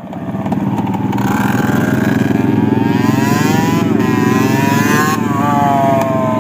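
Dirt bike engine running under throttle, its pitch climbing and then dropping back sharply about four seconds in and again just after five, then easing off slowly.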